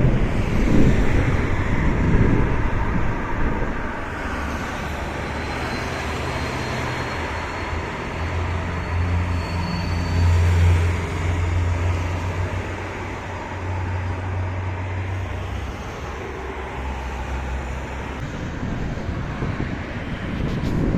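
Road traffic with a nearby vehicle engine running, a steady low hum that swells in the middle and fades later. A faint high whine rises slowly over several seconds partway through. An irregular low rumble fills the first few seconds.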